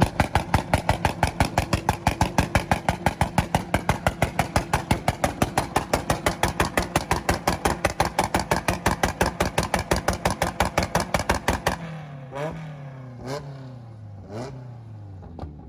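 Tuned car engine held on a two-step launch-control rev limiter, firing a rapid, even string of pops, about six a second, for nearly twelve seconds. It is released suddenly, then blipped four times as the revs fall.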